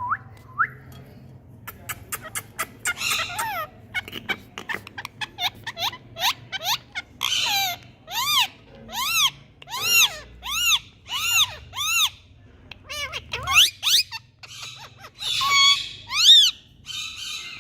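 Rose-ringed parakeet calling: a run of rapid clicks and short chirps, then a steady series of arched screeches, each rising and falling in pitch, about one and a half a second. Harsh squawks break in early on and again near the end.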